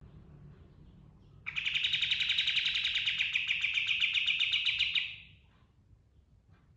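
Kapas tembak songbird singing one rapid rolling trill, a fast run of closely spaced notes that starts about a second and a half in, lasts about three and a half seconds and fades out. A low steady hum of recording noise lies underneath.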